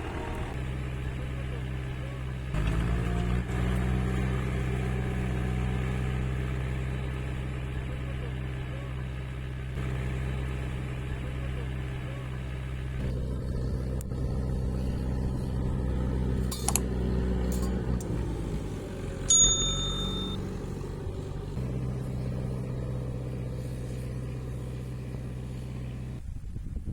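Tractor engine running steadily, its pitch shifting a little now and then. A click comes about two-thirds of the way through, then a short metallic ping, and the sound cuts off just before the end.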